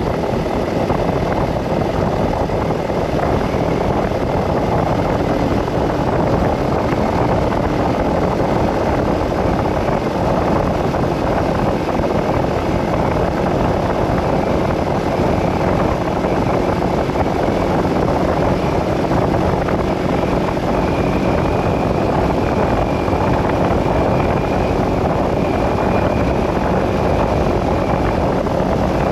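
Steady noise of a vehicle driving along a road: tyres, engine and wind mixed into an even rush with a faint steady hum, no change in speed or pitch.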